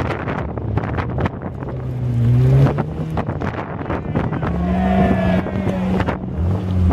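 Open trials car's engine pulling hard under load up a loose rocky climb. Its pitch rises about two seconds in and then holds high and steady, with wind buffeting the microphone.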